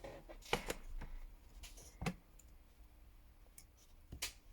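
A few scattered small clicks and taps as the small parts and tools of a smartphone being taken apart are handled.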